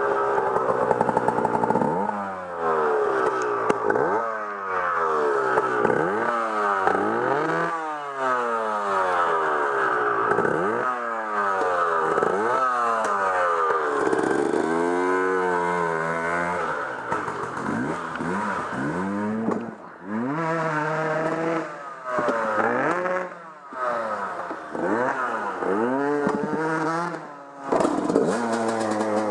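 Off-road vehicle engine being ridden hard, revving up and falling back over and over as the throttle is opened and closed, with a few brief throttle-offs near the end.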